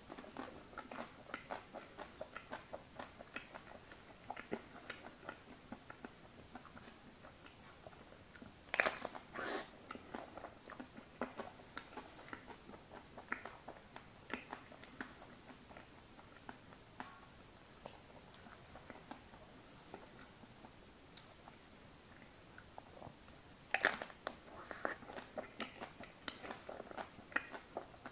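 Close-up eating sounds of an ice cream bar spread with Nutella: bites and wet chewing with many small mouth clicks. The loudest bites come about 9 seconds in and again about 24 seconds in.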